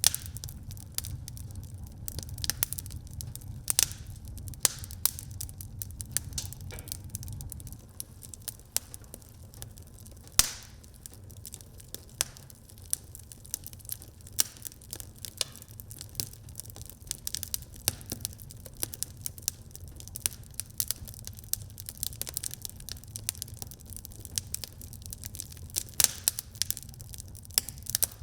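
Wood fire crackling in a fireplace: irregular sharp pops and snaps over a low steady rumble, with one louder pop about ten seconds in.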